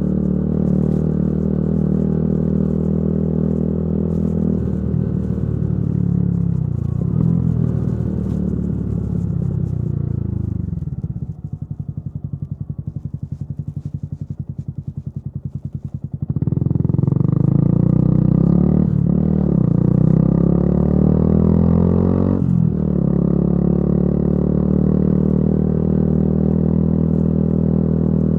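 Yamaha YZF-R125's single-cylinder four-stroke engine through a modified exhaust, cruising steadily, then easing off with the pitch falling to a low, pulsing idle about eleven seconds in. From about sixteen seconds it accelerates, with two brief breaks as it shifts up, then settles back into a steady cruise.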